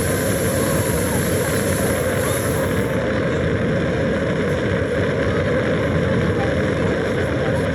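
Rocket-launch sound effect at a Lego rocket display: a loud, steady rushing rumble of engine thrust following the 'main engine start' call.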